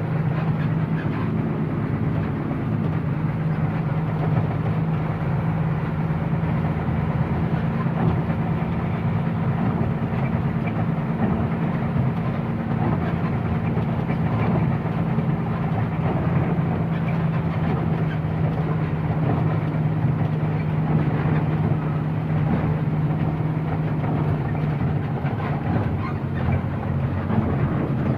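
Truck engine running steadily under way, a constant low drone with tyre and road noise.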